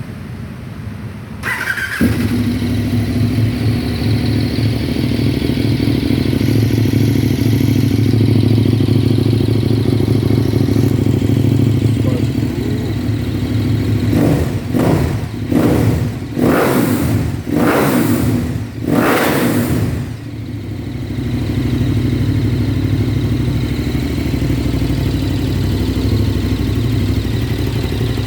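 KTM 1190 Adventure's V-twin engine with a Remus aftermarket exhaust, started up about two seconds in and then idling. Between about 14 and 20 seconds it is revved in several quick throttle blips, then it drops back to idle.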